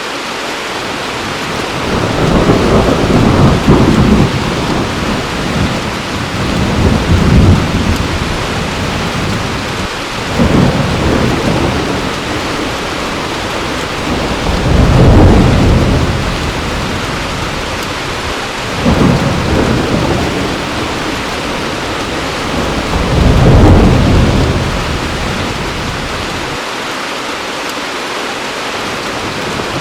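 Heavy rain falling steadily, with low rolls of thunder swelling and fading through it every few seconds, about six in all.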